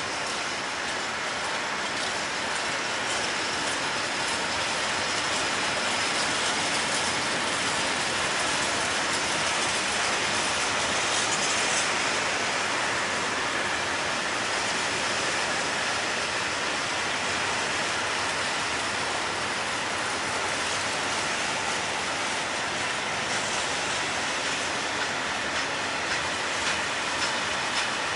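Freight train of covered hopper wagons rolling past: a steady rushing rattle of steel wheels on the rails, with a few sharper clicks near the end.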